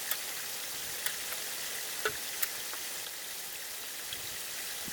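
Wood campfire crackling: a steady hiss broken by a few sharp pops.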